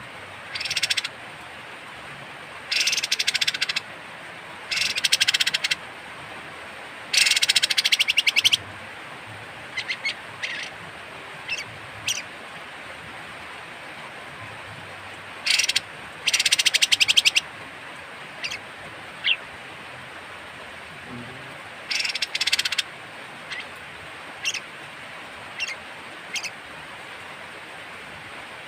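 Kapas tembak (olive-winged bulbul) giving harsh, rasping calls in repeated bursts of about a second each, with short sharp single notes between them.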